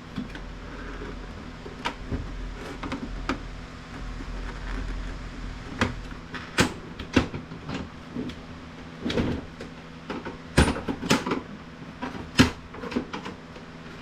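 Plastic printer housing being pried apart and handled: irregular clicks and clacks of plastic parts, sparse at first, then a denser run of sharper knocks in the second half, over a steady low hum.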